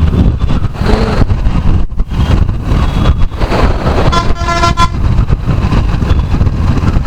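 A vehicle horn honks once, a single steady note just under a second long, about four seconds in. Under it, a steady low engine and wind rumble from riding a motorcycle.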